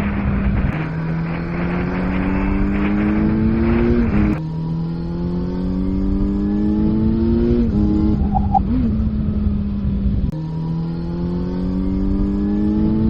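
Motorcycle engine under way, its pitch climbing steadily and then dropping back suddenly, about four times over, with heavy wind noise on the microphone in the first few seconds.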